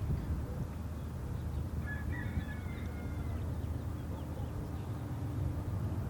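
Steady low rumble of BNSF freight-train diesel locomotives. About two seconds in comes a brief high, wavering call or squeal lasting roughly a second and a half.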